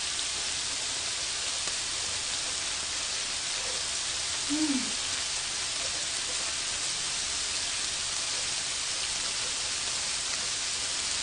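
Steady sizzling of bacon-wrapped shrimp frying on a grill pan, with one short hummed voice sound about four and a half seconds in.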